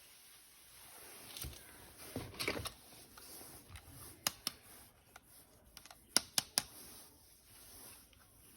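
Soft rustling, then sharp hard-plastic clicks from toy weapon parts being handled: two about four seconds in and a quick run of three about six seconds in.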